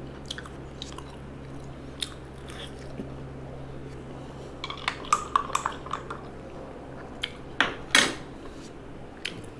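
Eating at the table: cutlery and dishes clinking, with crunching and chewing, in scattered clicks and a cluster of clinks about halfway through, then one louder scraping clatter near the end. A steady low hum runs underneath and stops shortly before the end.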